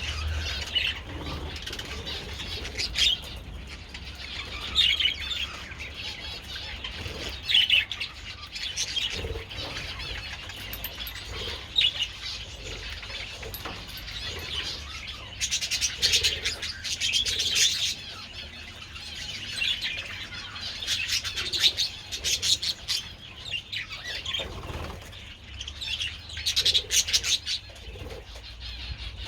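A flock of budgerigars chirping and chattering on and off, with wing flaps as birds flutter about.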